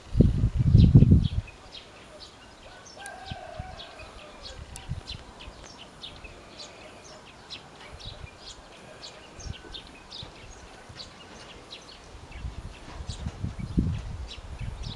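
Birds chirping outdoors: many short, high chirps throughout, with a brief wavering lower call about three seconds in. A loud low rumble comes at the start and again near the end.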